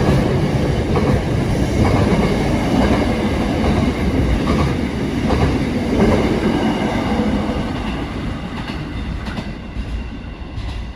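A train running past with a steady rumble and some clatter of wheels on the rails, fading away over the last few seconds.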